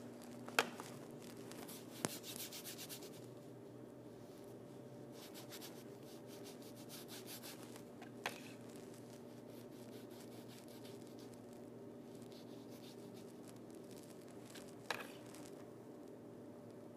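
Paintbrush brushing over a painted stage backdrop in runs of quick, rhythmic strokes, with four sharp taps spread through the stretch and a steady low hum underneath.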